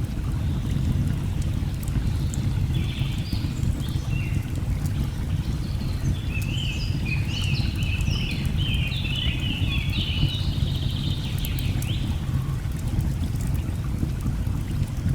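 Steady low rush of a waterfall, with birds chirping and warbling high above it, busiest from about six to twelve seconds in. Faint scattered crackles of burning logs tick through it.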